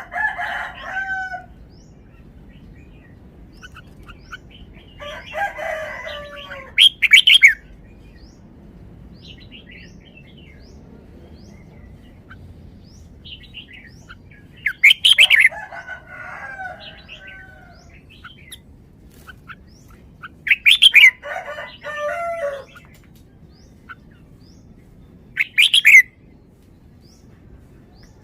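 Red-whiskered bulbul singing short warbled phrases every few seconds, several of them with loud, sharp notes, and faint chirps in between.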